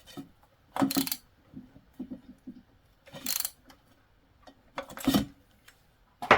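Clinks and rattles of small metal parts and tools being handled while a diesel heater is put back together, in four or five short bursts with pauses between.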